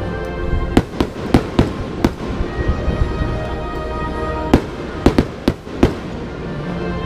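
Aerial firework shells bursting in sharp bangs, about ten in all: a quick cluster of five in the first two seconds, then another run of five from about four and a half seconds in. Music plays steadily underneath.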